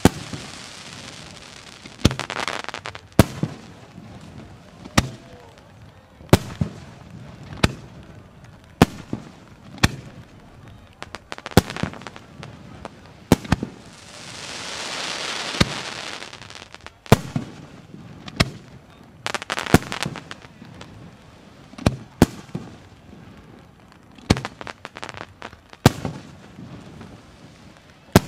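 Aerial firework shells by Ikebun bursting in a display, a sharp bang every second or two at an uneven pace. About halfway through, a hissing swell rises and fades between the bangs.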